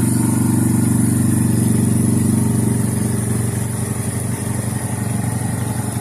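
Suzuki Eiger 400 ATV's single-cylinder four-stroke engine running steadily under way, easing off a little about halfway through.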